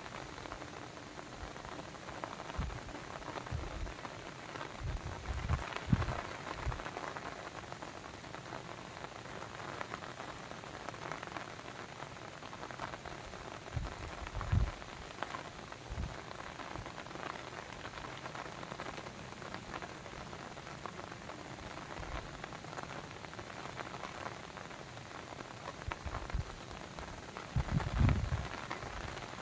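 Steady rain falling on a surface, with many separate drop hits. Occasional louder low thuds come about six seconds in, around fourteen seconds and near the end.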